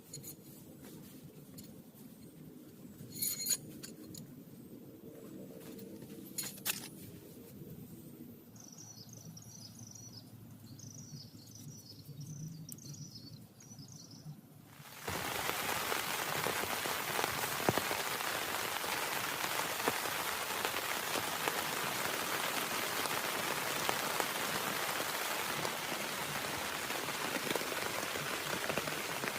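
Quiet outdoor ambience with two short knocks and a run of high chirps, then about halfway through heavy rain comes in abruptly and continues as a steady, dense downpour.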